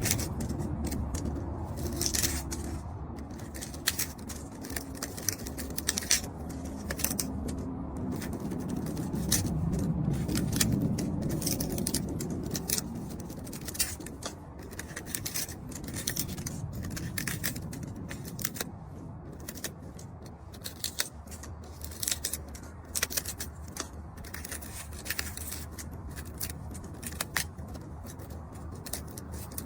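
Irregular sharp clicks and snips, as of small tools or objects being handled, over a low rumble.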